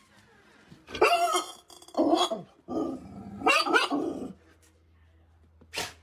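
A dog barking and growling in several bursts over the first few seconds, with one short bark near the end.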